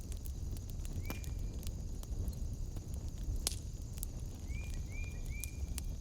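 Wood fire burning in a fireplace, crackling with irregular sharp pops over a steady low rumble. A short chirping call that rises then holds is heard once about a second in and three times in quick succession near the end.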